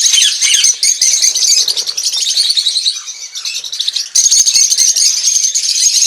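A small flock of lovebirds (Agapornis) chattering together: many overlapping shrill chirps and squeaks at once, dipping briefly about three seconds in before picking up again.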